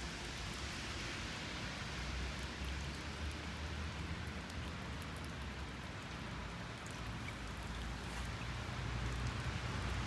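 Steady outdoor noise: an even hiss like rain or running water, with a low rumble underneath that grows stronger near the end.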